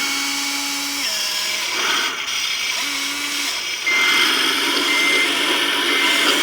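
Scale RC construction models running, with a whirring electric motor and gear whine whose pitch steps and shifts. From about four seconds in, a reversing beeper sounds about once a second.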